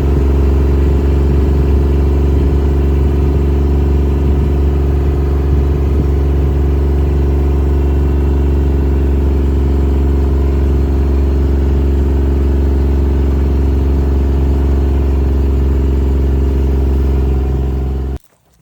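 An engine running steadily at a constant speed, stopping abruptly near the end.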